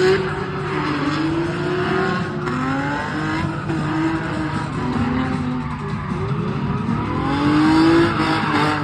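Infiniti G37's 3.7-litre V6 revving up and down under hard throttle while the car drifts, with tyres squealing. The revs climb in a long rise near the end.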